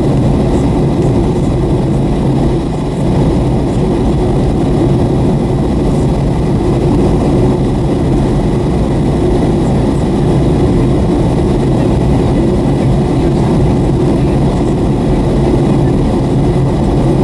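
Steady cabin roar of a Boeing 757-300 in flight, from its jet engines and the airflow over the fuselage, with a faint high steady tone above it.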